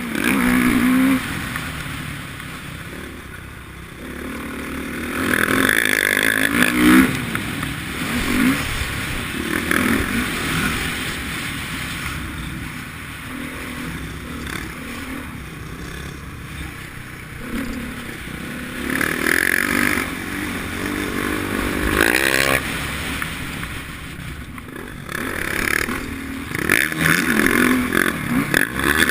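Motocross dirt bike engine revving up and backing off as it is ridden around the track. It grows louder several times as the bike comes near, then fades again.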